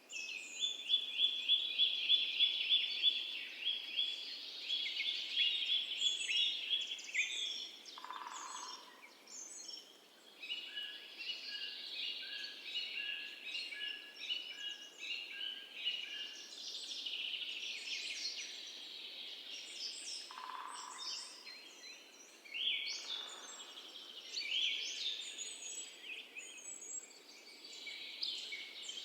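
Several birds singing together in fast trills of repeated chirps. A slower run of evenly spaced notes comes in the middle, and a few short lower calls come through now and then.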